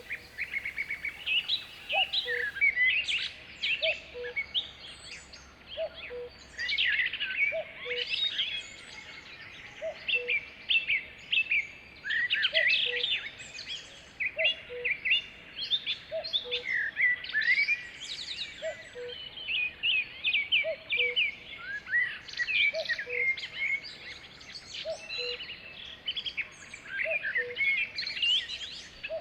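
A chorus of several songbirds, many overlapping chirps, trills and whistles. Under them a short low note repeats steadily about every two seconds.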